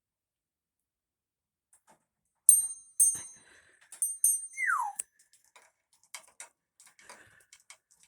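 Pet bird's sounds: four sharp, bell-like rings in two quick pairs, then one falling whistle, followed by scattered soft clicks.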